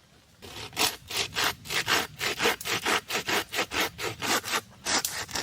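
A piece of wood being sawn by hand with quick, even back-and-forth strokes, about four a second.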